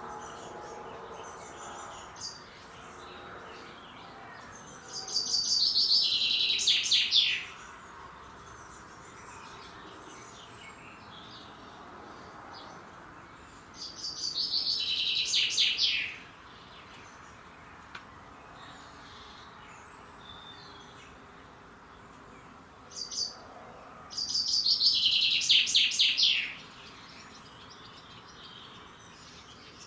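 A songbird singing the same song three times, roughly ten seconds apart, each phrase a quick run of notes about two seconds long that falls in pitch. Fainter chirps from other birds come in between.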